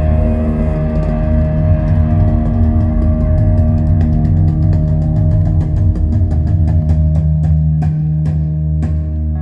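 Live rock band's held closing chord: guitars and bass ringing on while the drums hit again and again, the strikes growing slower and further apart toward the end.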